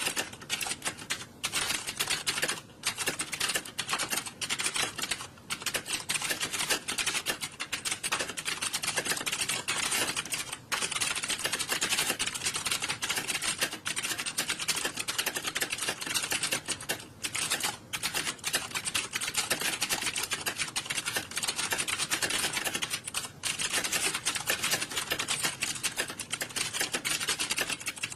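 Many computer keyboards being typed on at once, a dense, continuous patter of key clicks with only brief lulls.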